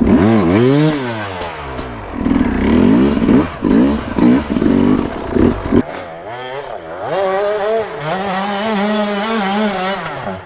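KTM SX 150 two-stroke dirt bike engine revving up and down repeatedly under throttle, then held steady at high revs for the last four seconds or so.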